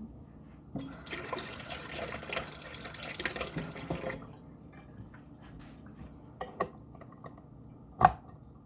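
Kitchen tap running into a sink for about three seconds, then shut off. Several light knocks follow, then one sharp clack near the end.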